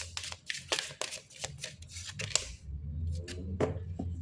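Oracle cards being shuffled and drawn by hand: a quick run of crisp card snaps and slides for about two and a half seconds, then a few softer rustles and taps.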